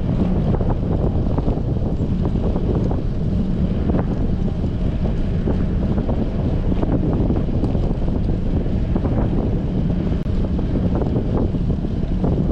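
Strong wind buffeting a bicycle-mounted GoPro's microphone while riding: a loud, steady low rumble with scattered small clicks.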